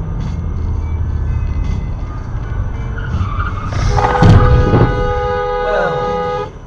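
Car on the road with steady tyre and engine rumble, a sudden loud bang of impact about four seconds in, then a car horn held steadily until near the end.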